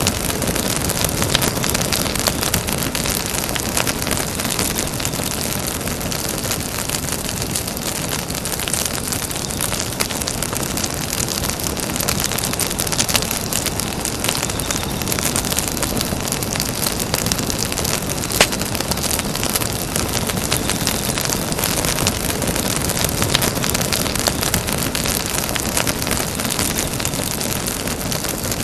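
Campfire burning with a steady hiss full of small crackles and pops, and one sharper pop about eighteen seconds in.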